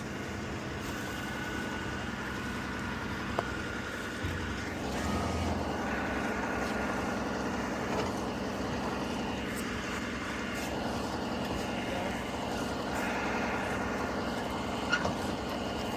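A truck engine running steadily, a little louder from about four seconds in.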